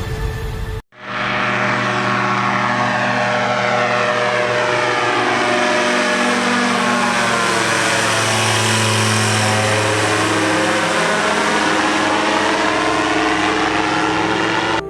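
An aircraft flying over, a steady loud drone with a low hum, its tone sweeping as it passes closest around the middle. It starts abruptly about a second in.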